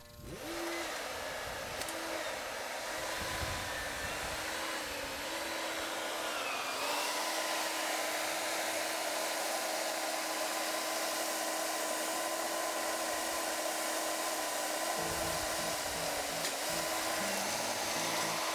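Skid steer engine running steadily while loading logs, its pitch wavering slightly.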